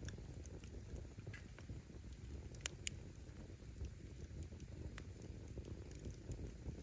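Wood campfire burning: a low rumble of flames with scattered crackles and pops of firewood bursting, the sharpest pop a little under three seconds in.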